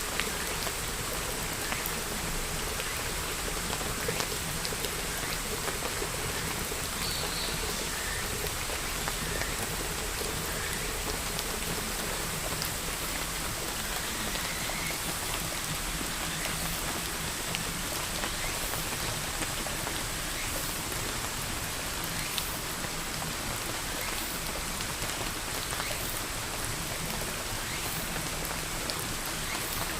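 Steady rainfall, an even hiss of rain with individual drops ticking on a surface.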